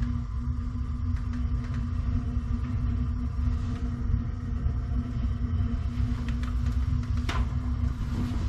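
Gas water heater burner firing: a steady low rumble with a constant hum, and one sharp click about seven seconds in. It sounds to the plumber like the burner needs cleaning.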